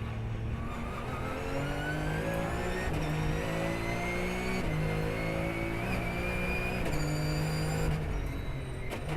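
Porsche race car engine accelerating hard through the gears, its pitch climbing steadily and then dropping sharply at three upshifts.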